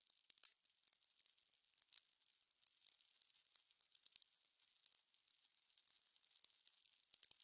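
Fire crackling: a soft, thin hiss scattered with irregular small pops and snaps, a few sharper pops about half a second in and near the end.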